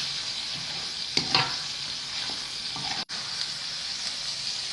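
Hot oil sizzling in a pan as fried chicken is stirred together with sambal lado chili paste. A utensil knocks and scrapes in the pan a few times, loudest about a second in.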